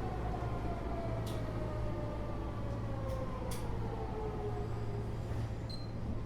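Keio 8000 series train heard from inside the car, above its Hitachi GTO-VVVF main controller. The inverter and traction motor whine falls steadily in pitch over a low running hum, with a few faint clicks from the wheels on the rails.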